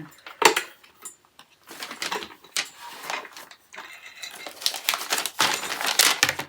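Clicking and rattling of small assembly hardware and rack parts being handled during a flat-pack build, with a denser patch of clatter near the end.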